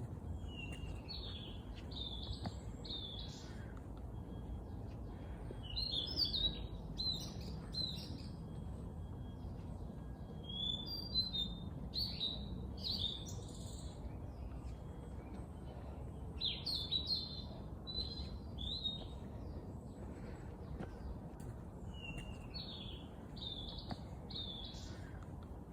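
A songbird singing short, quick, warbling phrases, about five of them, each a second or two long and spaced roughly five seconds apart, over a low steady background rumble.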